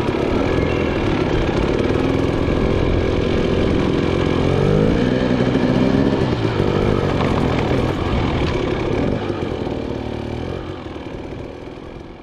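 Enduro dirt bike engine running, revving with a rise and fall in pitch about four to five seconds in, then fading out near the end.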